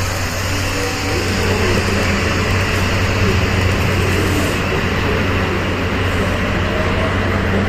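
JR DD51 diesel-hydraulic locomotive idling steadily at the platform, a deep, even engine hum from its twin V12 diesels.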